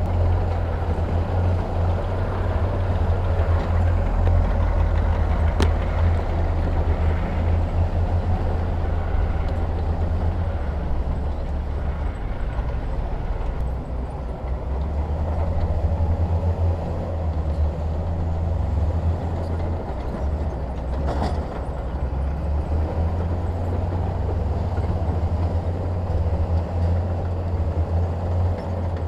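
Heavy diesel construction machinery running, a steady deep engine rumble, with a sharp click about six seconds in and a brief knock around twenty-one seconds.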